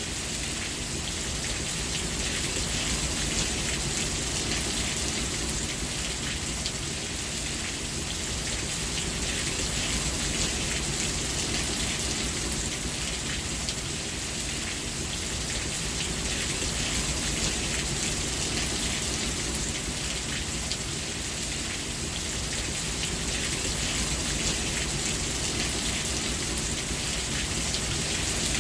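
Steady rain falling, a dense even patter with fine drop ticks, swelling and easing slightly in loudness.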